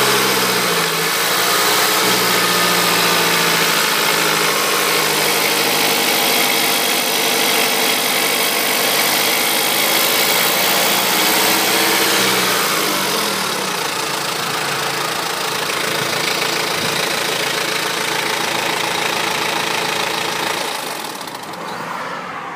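BMW E91's engine running after a timing chain repair, mostly at a steady speed. The pitch rises briefly at the start and shifts about 13 seconds in, after which it runs somewhat quieter.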